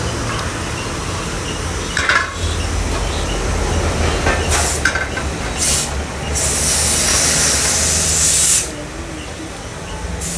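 Compressed air hissing from an air gun: two short bursts, then a longer blast of a couple of seconds, over a steady low machine hum.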